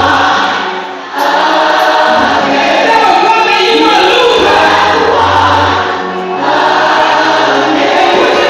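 Gospel choir singing with a band, live worship music.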